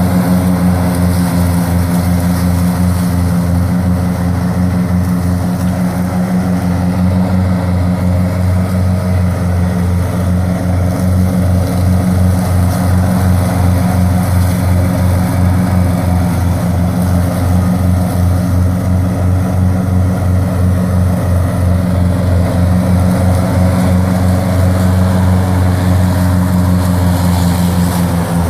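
Wolf-Garten Expert 105.18 H riding lawn tractor engine running steadily at working speed while mowing wet, month-old grass.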